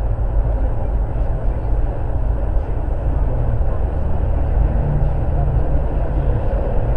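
Steady road and engine rumble of a moving vehicle, heard from inside the cabin through a dashcam microphone, with no sudden impacts.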